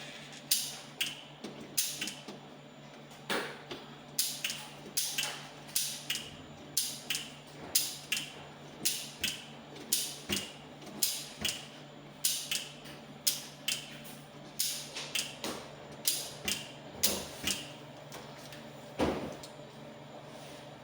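Irregular sharp clicks and light knocks, about one or two a second, from hand work on the parts of a motor starter, over a steady low hum.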